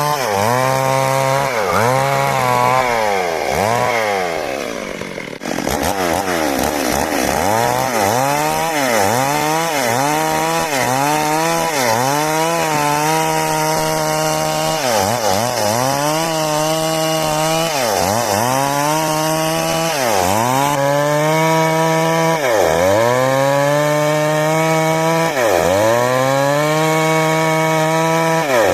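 382 two-stroke chainsaw cutting wood at high revs. Its engine note repeatedly sags and recovers as the chain bites into the timber and eases off, about once a second at first and then every two to three seconds.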